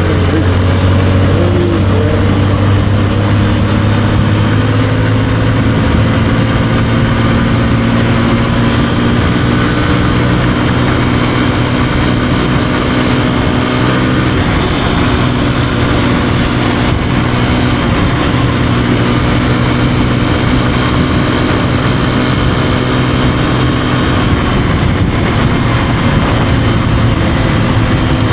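Kawasaki KLX150E's single-cylinder four-stroke engine running steadily while riding, its note shifting a few times along the way.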